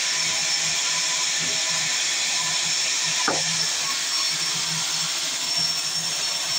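Sawmill saw running and cutting wood: a steady hiss over a low, pulsing hum, with one short knock about three seconds in.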